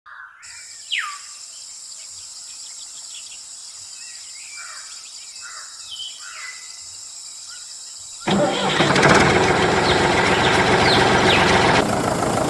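Birds chirping over a steady high hiss. About eight seconds in, a small engine starts abruptly and keeps running loudly.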